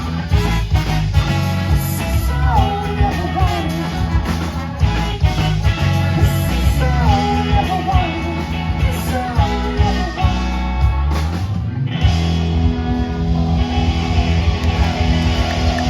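Live rock band playing an instrumental passage, a lead line bending up and down over bass and drums; the texture changes about twelve seconds in.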